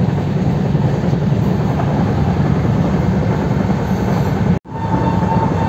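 Indian Railways passenger train heard from inside the coach while it is running: a loud, steady low running noise with no speech. The noise breaks off briefly about four and a half seconds in, and a thin steady high tone runs along with it after that.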